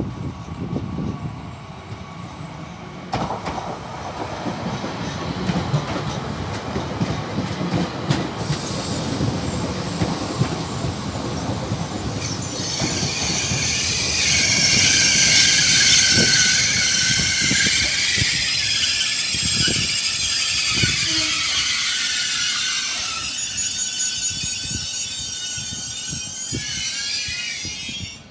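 A train rolling through the station with a low rumble and a few knocks, then from about halfway a loud, high-pitched metallic squeal from the wheels that lasts to the end.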